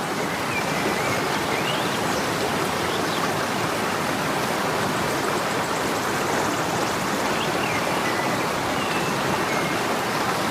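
Steady rushing of a flowing stream, with a few faint short bird chirps over it.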